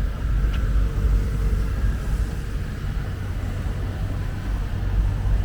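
City street ambience dominated by a steady low rumble of traffic, with one faint tick about half a second in.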